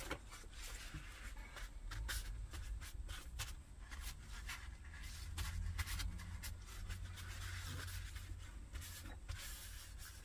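Quiet handling noises: scattered light clicks and taps with some rubbing, over a faint low hum.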